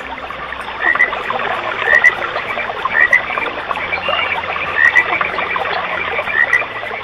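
Nature-sound recording of a dense chorus of chirping calls, with a louder two-note chirp repeating about once a second.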